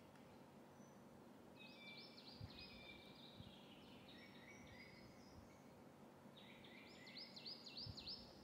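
Faint bird chirping in three short bursts of rapid, repeated chirps, the last burst near the end the loudest, over a low steady hum of room tone.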